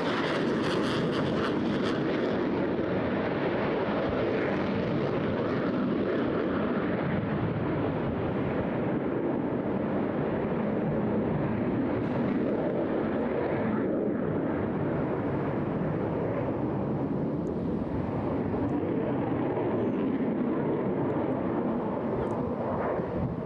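Eurofighter Typhoon's twin EJ200 turbofan jet engines producing steady, continuous jet noise during a display, slightly brighter in the first couple of seconds.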